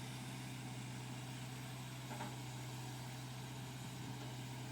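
Engine of a telescopic lifting machine idling steadily, a constant low drone.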